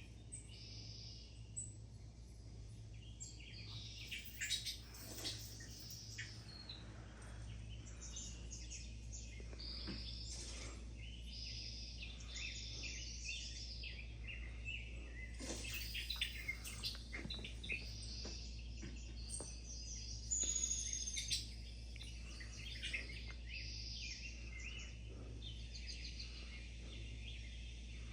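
Small songbirds chirping and calling, many short overlapping chirps all through, with a clearer high call about twenty seconds in, over a steady low hum.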